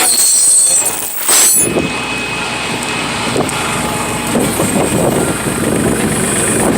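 Excavator's engine and machinery running, with a loud hiss for the first second and a half, then a steady mechanical din.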